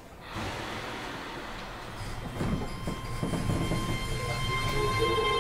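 Keio 7000-series electric train car setting off from a station. The running noise comes up suddenly and grows louder, with a few knocks, and steady motor tones plus a rising whine come in near the end as it gathers speed.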